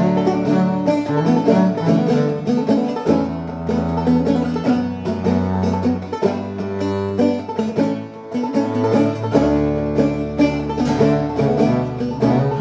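Instrumental break of an acoustic string band: quick plucked string notes over long upright bass notes that change every few seconds.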